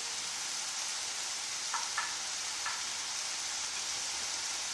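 Chicken and vegetables in red curry paste sizzling in a wok: a steady hiss with a few small pops about two seconds in.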